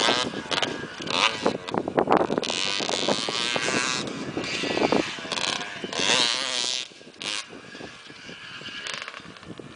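Motocross bike engine revving hard with repeated surges and pitch swings. Around seven seconds in it drops off sharply and goes on more quietly, as the bike moves away.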